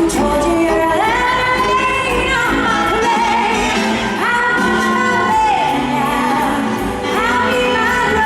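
Female singer performing a show tune live over a band's accompaniment, holding long sung notes, three of them in a row.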